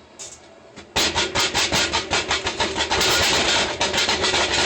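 Washing machine running with the recording phone inside it: a loud, rapid rubbing rattle, about ten strokes a second, that starts suddenly about a second in and stops near the end.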